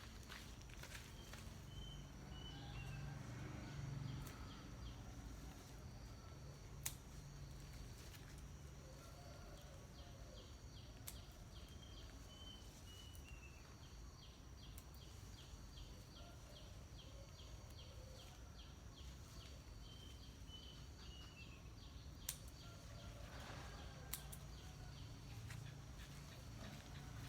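Quiet outdoor ambience with a low steady hum; a bird repeats a short falling run of high chirps three times, and a few sharp clicks sound now and then.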